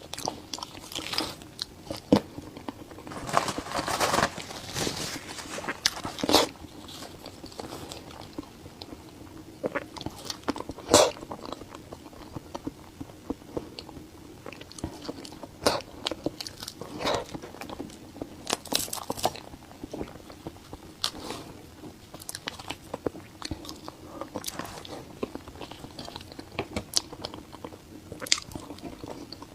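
Close-miked eating: bites and chewing with many short, sharp crunchy clicks, densest about three to five seconds in.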